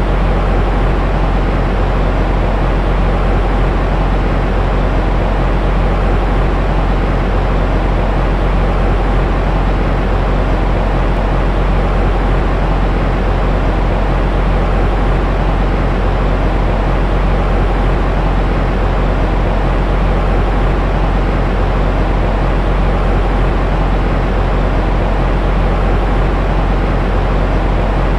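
Steady, unchanging noise used to soothe a baby to sleep, heaviest in the low end so it has a deep rumble with a softer hiss above and no breaks or events.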